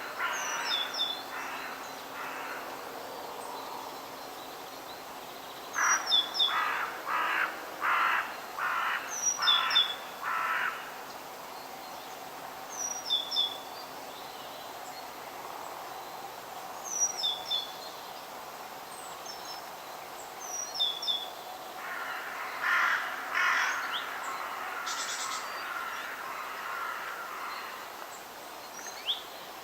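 Forest birds: runs of harsh, evenly spaced calls, five or six in a row about six seconds in and again later, while a small songbird repeats a short high falling phrase every few seconds over a steady background hiss.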